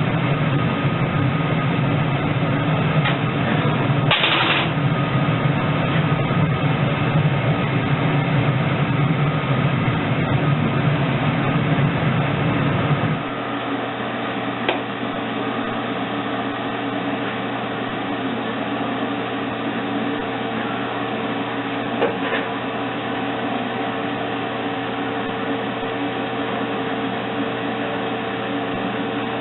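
A steady machine hum from a running motor. About 13 seconds in it quietens and loses its deeper rumble, leaving a steadier hum with a faint held tone. A few light knocks or clicks sound through it.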